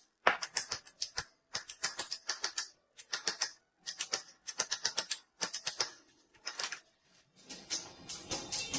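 A goldsmith's small hammer tapping on gold sheet in quick, light strokes, in short runs of several taps with brief pauses between them. Near the end the tapping grows denser and fuller.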